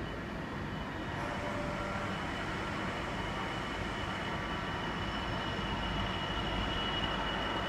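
Class 66 diesel locomotive, with its two-stroke V12 engine, hauling a rail train: a steady rumble with a thin high whine above it, slowly growing louder.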